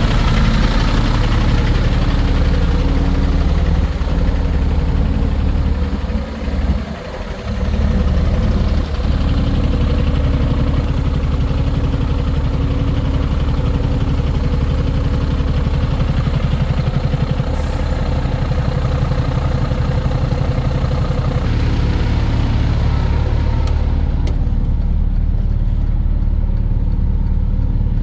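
Mercedes-Benz Antos 1824 truck's six-cylinder diesel engine idling steadily, with a short dip in loudness about six seconds in and a brief click a little past halfway.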